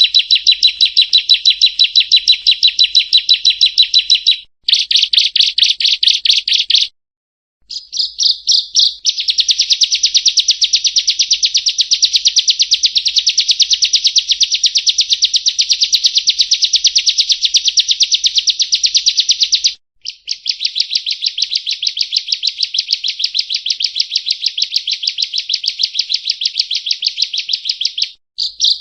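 Bar-winged prinia (ciblek kristal) singing a high, rapid trill of fast repeated notes in long runs, with short pauses about 4 seconds in, around 7 to 8 seconds, about 20 seconds in and near the end.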